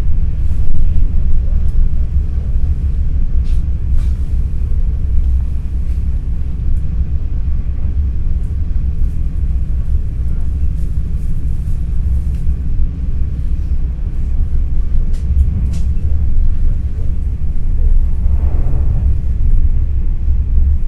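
Cabin of an NS Intercity New Generation (Alstom Coradia Stream) train running: a steady low rumble with occasional light clicks and rattles, and faint passenger voices near the end.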